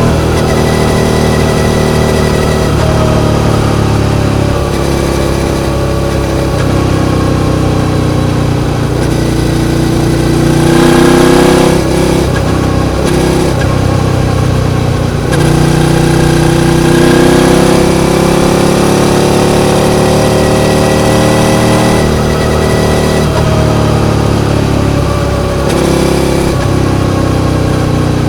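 Suzuki SV650's V-twin engine running continuously. Its pitch climbs slowly, drops sharply about twelve seconds in, then climbs again before settling.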